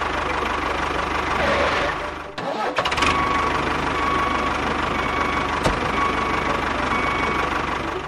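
Tractor engine running steadily with a rapid low knock, briefly dropping away about two and a half seconds in and then running on with a faint steady whine.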